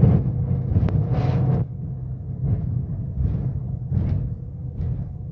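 Scania K270UB bus's diesel engine and ZF gearbox running with a steady low rumble, heard on board. A couple of sharp clicks near the start and a short hiss about a second in.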